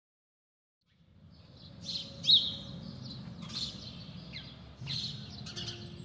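A songbird chirping over a low, steady background of outdoor ambience, fading in from silence at the start of a new-age nature-music track. The bird gives a string of quick chirps, the loudest about two seconds in, and a soft sustained synthesizer tone enters near the end as the music begins.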